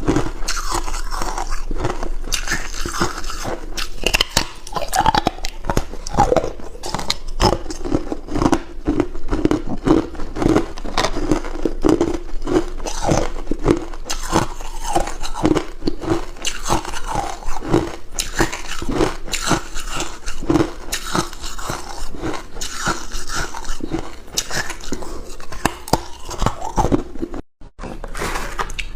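Hard cube ice being bitten and chewed close to the microphone: dense, continuous crunching and crackling, with one brief break near the end.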